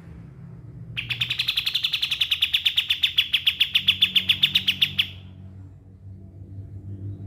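Pied triller (kapas tembak) singing one fast, even trill of about ten notes a second, lasting about four seconds and growing louder toward its end.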